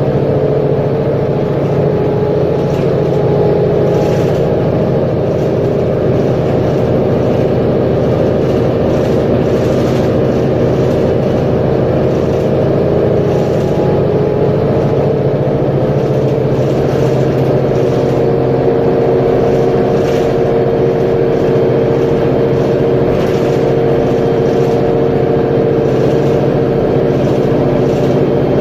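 Mercedes-Benz Conecto G articulated bus's OM457LA inline-six diesel engine running steadily, its pitch drifting slightly up and down.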